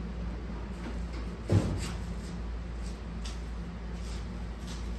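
Handling noises from work on an engine: one solid knock about a second and a half in and a few faint clicks, over a steady low hum.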